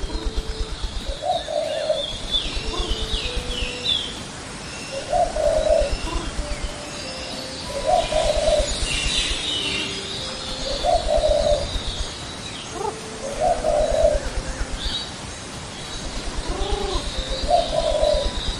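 Pigeons cooing: a short coo repeated about every two to three seconds, with small birds chirping higher over it.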